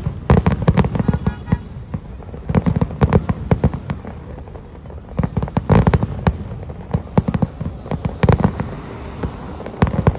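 Fireworks display: rapid clusters of sharp bangs and crackles from bursting aerial shells, easing off briefly about four seconds in and then picking up again.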